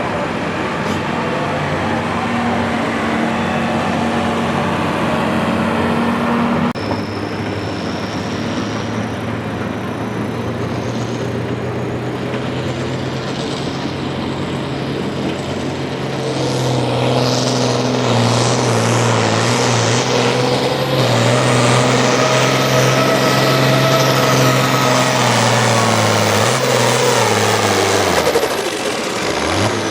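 Farm stock diesel tractor pulling under load, its engine running hard and steady with a high whine climbing in pitch. It gets louder about halfway through, then the engine winds down near the end as the throttle comes off.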